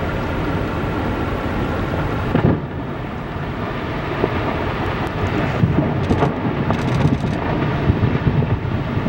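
Strong wind blowing hard against the microphone in uneven gusts, with a cut in the sound about two and a half seconds in.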